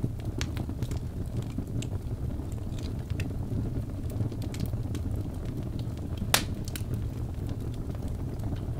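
Birch log fire burning, with a steady low rumble and scattered crackles, and one sharp, louder pop about six seconds in.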